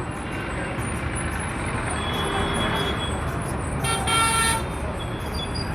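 Busy road traffic, with steady engine and tyre noise. A vehicle horn honks once, briefly, about four seconds in.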